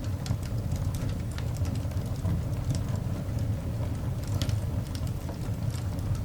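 Coal fire burning in a cast iron dog grate: a steady low rumble of the flames under scattered small crackles and pops, with a sharper pop about four seconds in.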